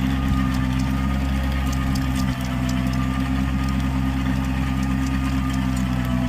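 Kubota B2441 compact tractor's diesel engine running steadily under a constant throttle, with a faint rapid mechanical ticking.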